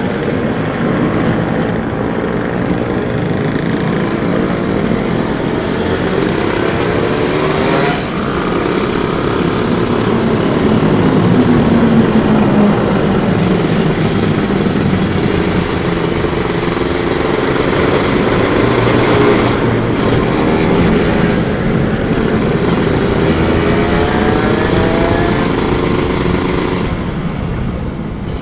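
Kawasaki Ninja SS 150's two-stroke single-cylinder engine running while riding, its pitch rising and falling with throttle and gear changes, with a brief dip about eight seconds in.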